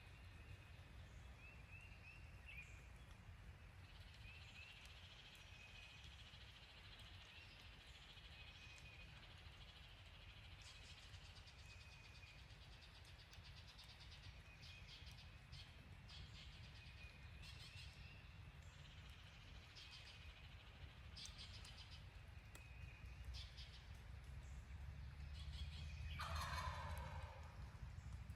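A wild turkey gobbles once near the end, a rapid rolling call that drops in pitch. Before it, faint small-bird chirps and scattered ticks sit over a low steady rumble.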